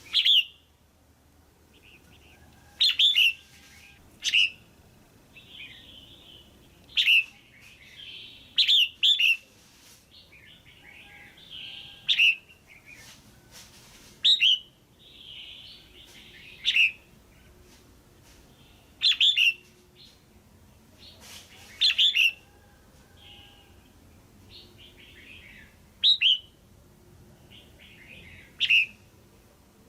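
Female red-whiskered bulbul calling: short, sharp, loud notes about every two seconds, some given in quick pairs, with softer chattering notes between.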